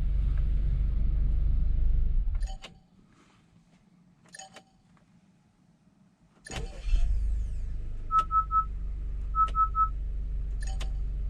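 2019 Acura RDX's K20C4 2.0-litre turbocharged four-cylinder idling, going quiet about two and a half seconds in apart from a few faint clicks. The engine starts again about six and a half seconds in and settles back to a steady idle. Two quick sets of three short beeps sound around eight and nine and a half seconds.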